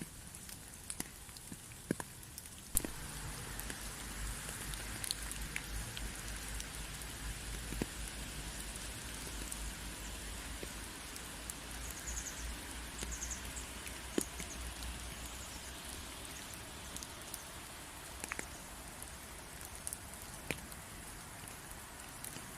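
Steady rain with individual drops tapping sharply here and there. About three seconds in it gets louder and a low rumble joins it.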